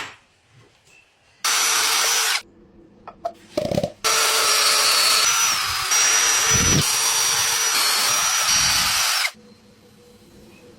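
A small power tool's electric motor running with a high whine: a burst of about a second, then a longer run of about five seconds that shifts pitch partway through and cuts off sharply.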